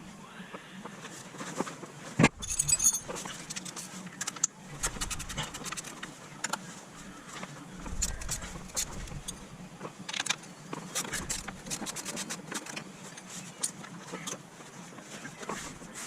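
Metal hand tools and loose parts clinking and rattling as they are handled, irregular sharp clicks with a heavier knock about two seconds in.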